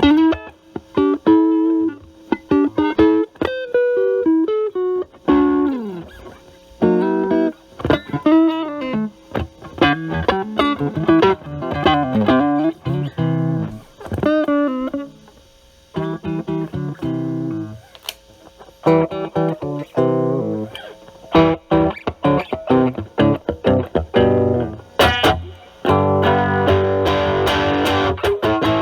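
Electric guitar (a Stratocaster with single-coil pickups) played through a Metal Pedals Rawhide overdrive pedal into a Marshall Valvestate amp's drive channel, with the pedal's gain at about 8–9 and the tone cleaned up. It plays single-note lines and short phrases with pauses, then a strummed chord left ringing near the end.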